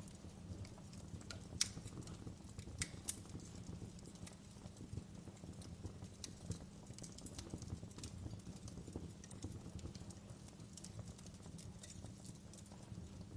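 Wood fire burning in a fireplace: a low steady rumble of flames under irregular crackles and sharp pops, the loudest pop about a second and a half in and another about three seconds in.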